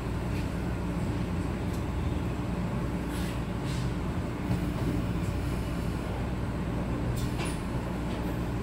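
Metro-Cammell electric multiple unit (MTR MLR train) heard from inside the carriage: a steady low hum of several unchanging tones, with a few faint clicks and taps scattered through it.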